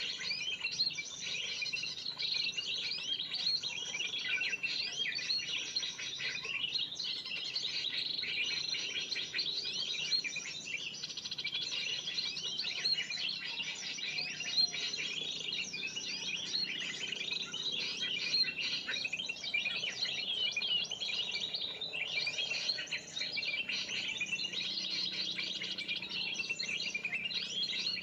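A dense, continuous chorus of many small birds chirping and trilling at once: the 'burung ribut' bird-lure call used by trappers to draw in spiderhunters.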